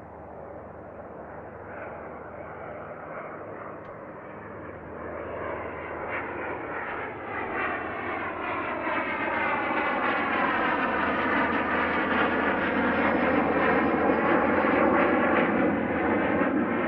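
A fixed-wing aircraft's engines growing louder over about ten seconds and then staying loud, with a sweeping, phasing whoosh as it passes close: an aircraft taking off.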